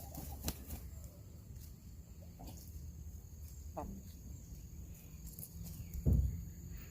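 Backyard hens pecking and clucking softly over a steady, high-pitched background drone. A short falling call comes about four seconds in, and a louder low sound near the end.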